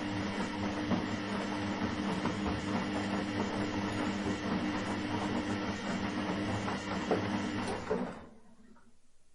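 Washing machine running: a steady motor hum with scattered knocks and rattles, which cuts out about eight seconds in, leaving only a faint hum.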